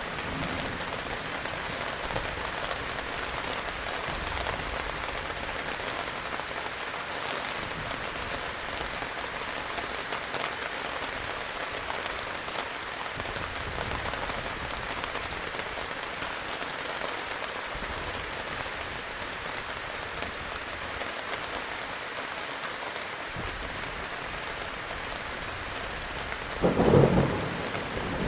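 Heavy rain falling steadily, with faint low thunder rumbles. Near the end comes one loud, sudden thunderclap lasting about a second.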